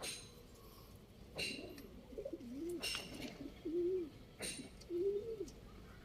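Domestic pigeons cooing, a run of low coos that rise and fall in pitch. Four sharp clicks come about every one and a half seconds.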